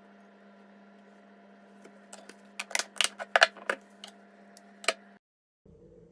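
A quick irregular run of sharp clicks and taps over a steady low hum, stopping suddenly.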